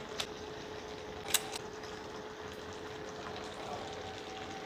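Chicken pieces frying in soy sauce in a wok: a soft, steady sizzling hiss with a steady hum underneath, and a single sharp click about a second in.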